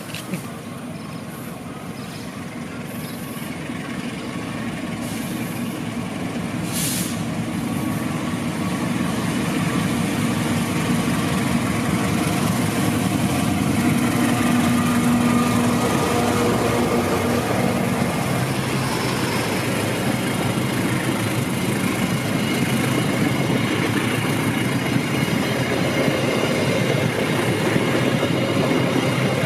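A train approaching and passing close by, growing louder over roughly the first dozen seconds and then staying loud, with the rumble of its wheels on the rails and a steady low hum about halfway through.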